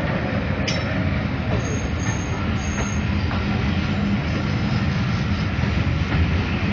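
Train running through the station: a steady low rumble of engine and wheels on the track.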